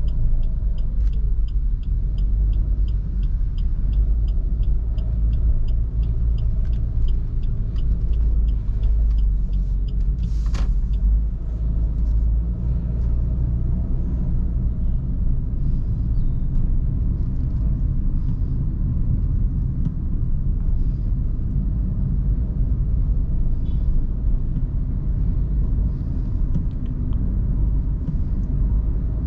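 Vehicle engine and road rumble while driving, steady and low. A regular ticking, about two ticks a second, runs through the first nine seconds or so, and there is one sharp click about ten seconds in.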